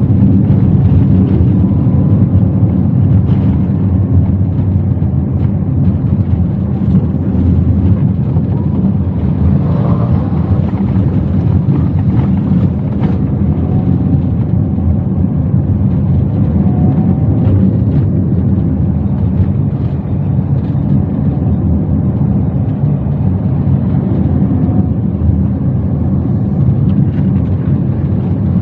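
Inside a Toyota Wigo hatchback on the move: a steady low rumble of engine and road noise.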